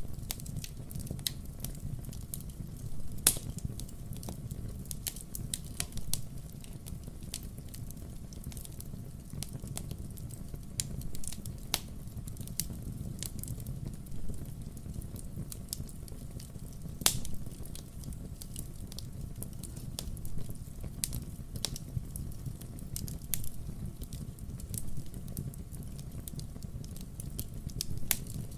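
Burning firewood crackling: frequent sharp pops and snaps over a low steady rumble, the loudest pops about three seconds in and about seventeen seconds in.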